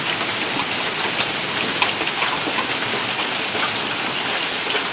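Hail and rain pelting down: a dense, steady hiss peppered with many sharp ticks of hailstones striking hard surfaces.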